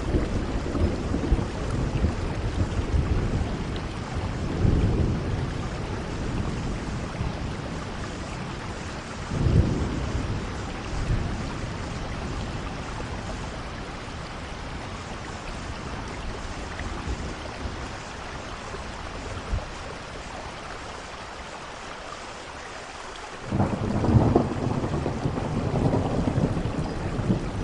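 Steady rainfall with rolling thunder. Low rumbles swell in the first few seconds and again about ten seconds in. A stronger rumble comes in suddenly about twenty-three seconds in and builds toward the end.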